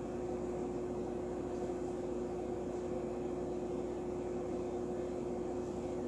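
Steady mechanical hum: one held tone over an even hiss, unchanging throughout.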